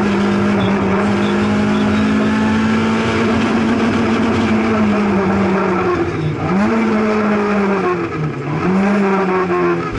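Opel Astra GSi rally car's engine heard from inside the cabin, held at high revs at a near-steady pitch, then the revs drop and climb again twice in the last few seconds.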